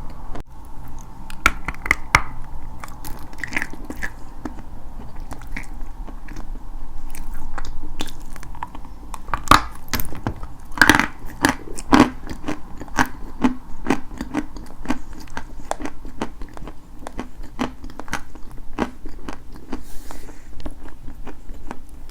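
Dry white chalk being bitten and chewed close to the microphone: a run of sharp crunches and crackles, loudest and densest around the middle.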